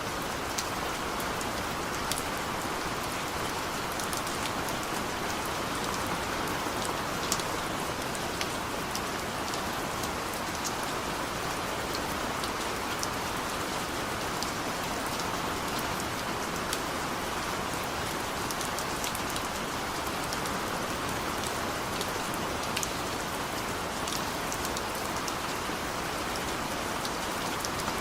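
Steady heavy rain falling, with a constant even hiss and scattered sharp drop ticks throughout.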